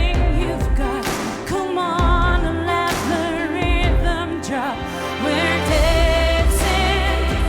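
Pop ballad: a woman singing long notes with vibrato over band accompaniment, with a steady bass and drum hits.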